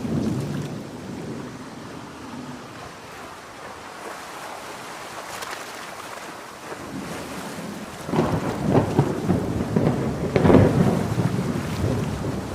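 Thunderstorm with steady heavy rain. A low roll of thunder fades in the first couple of seconds, and a louder, crackling peal of thunder breaks about eight seconds in, peaks a couple of seconds later and then rumbles away.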